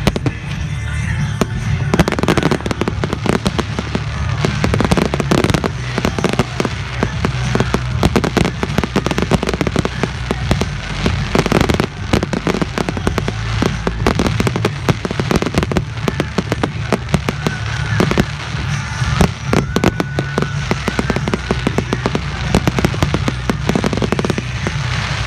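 Fireworks going off in quick succession: a dense, continuous run of bangs and crackling, with music playing underneath.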